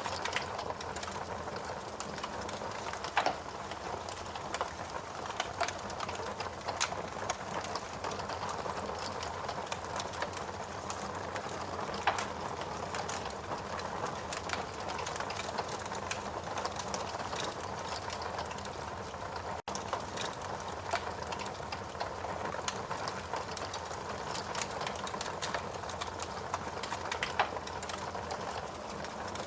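Wood fire burning in a fireplace: a steady hiss of flames with many sharp crackles and pops scattered through, a few of them louder. About two-thirds through, the sound breaks off for a split second.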